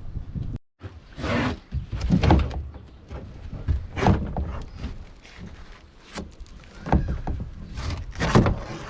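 Repeated knocks, thuds and scrapes as loose gear is handled and moved about inside a small sailboat's cabin.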